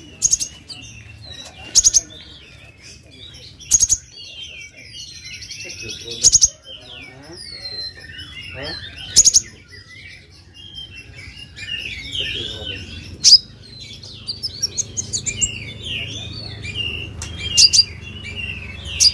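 Kolibri ninja sunbird singing: loud, sharp high chirps every two to four seconds, with rapid high twittering between them that gets busier in the second half.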